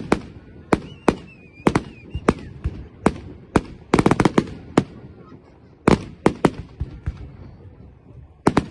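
Fireworks going off: an irregular series of sharp bangs, many in quick pairs, with a dense rattle of reports about halfway through.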